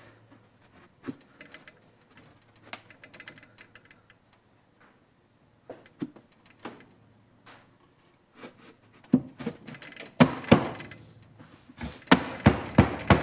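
Wooden beehive box boards being fitted and knocked together by hand. Light, scattered clicks and taps give way near the end to a run of loud, sharp wooden knocks as the joints are pressed home.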